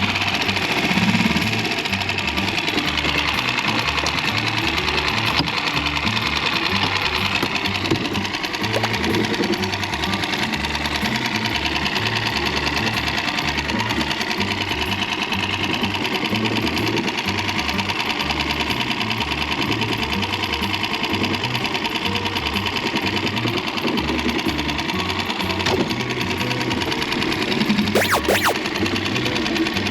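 Small Tohatsu outboard motor running steadily with a fast, even pulsing beat.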